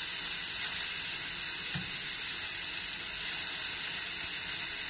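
Chicken and vegetables frying in a hot stainless steel wok, with a steady sizzle as a spatula stirs them.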